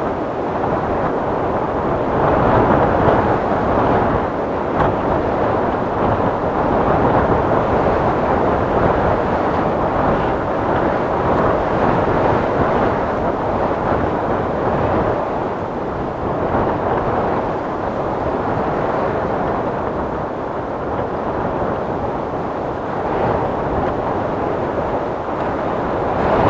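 Wind sound effect: a steady rush of wind that swells and eases in slow gusts every few seconds, with no whistling tone.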